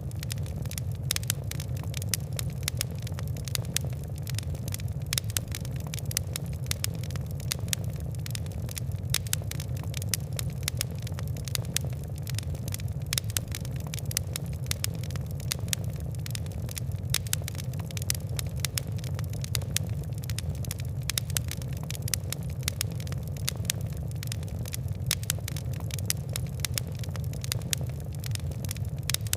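Fire crackling: many small, irregular pops and ticks over a steady low rumble of burning.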